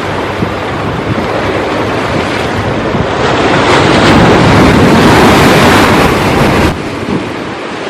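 Sea surf with wind buffeting the microphone: the rush of a wave builds about a third of the way in, stays loudest for a few seconds, then drops off abruptly near the end.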